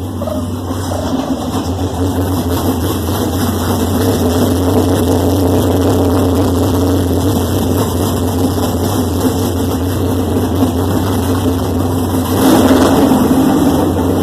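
Race car engine running steadily, growing a little louder over the first few seconds and swelling briefly near the end.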